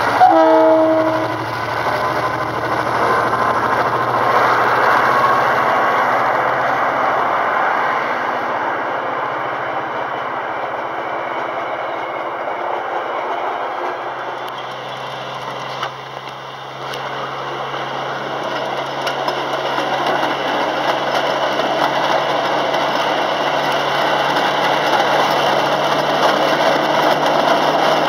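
A diesel train running on the rails: rumbling wheel and track noise over a low, steady engine hum. About halfway through the sound dips briefly, and then a steadier engine hum carries on.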